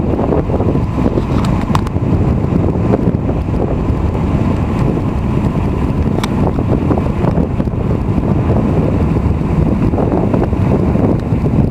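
Loud, steady low rumbling noise, with a couple of faint clicks.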